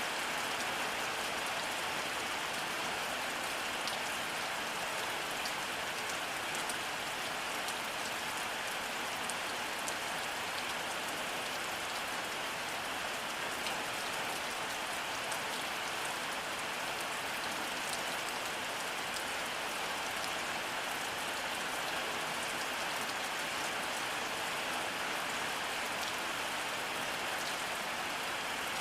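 Steady rainfall with many small droplet ticks, an even hiss with no thunder.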